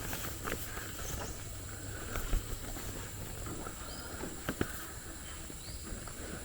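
Lowland rainforest ambience: a steady high-pitched insect drone, with a bird giving a short rising call twice, and a few footsteps knocking.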